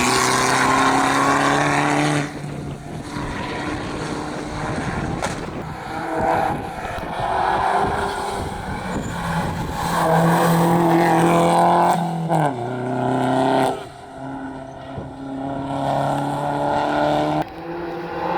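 Rally car engines at high revs on a stage, pitch rising and dropping with gear changes over several loud stretches. The pitch falls sharply about twelve seconds in as a car slows.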